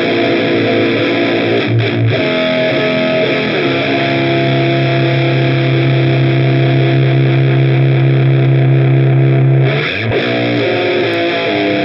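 Distorted electric guitar played through an Olinthus Cicada overdrive pedal: chords ringing out, then a single low note held for about six seconds, then chords again.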